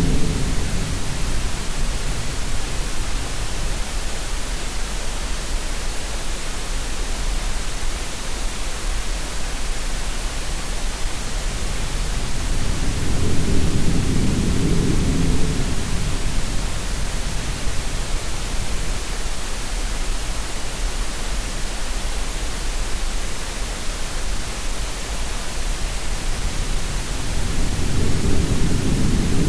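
Steady green-noise hiss mixed with sea sounds: a low rush of surf swells and fades about every fourteen seconds, three times.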